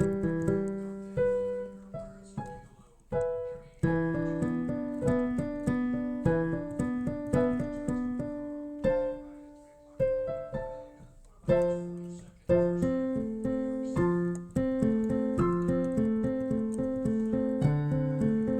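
Solo piano background music, a gentle melody of separate notes that ring and fade, with a few brief pauses.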